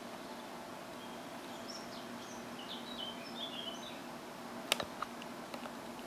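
Small birds chirping from a wildlife video played through computer speakers, over a steady low hum. A few sharp clicks follow about three-quarters of the way in, the first the loudest.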